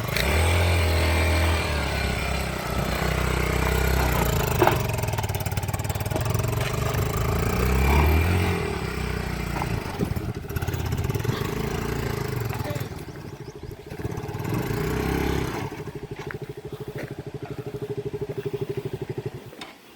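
A motor vehicle's engine running while under way, its revs rising and falling with a steady low rumble. Over the last few seconds the level drops and the engine's rapid firing pulses stand out more plainly.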